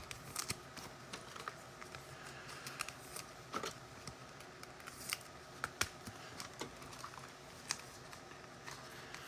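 Faint, irregular clicks and light rustles of trading cards and packs being handled on a table.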